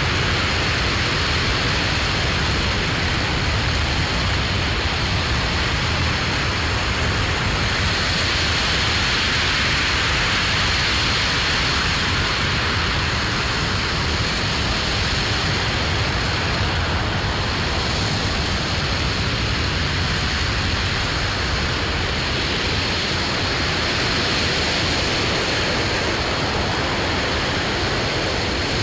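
RS-25 liquid-hydrogen/liquid-oxygen rocket engine firing on a test stand, heard from a distance as a steady, unbroken rumble and hiss that stays level throughout.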